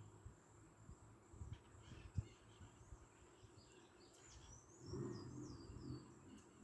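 Faint outdoor ambience: a bird gives a quick series of chirps about four to six seconds in, over a steady high-pitched insect drone. A low rumble swells around five seconds.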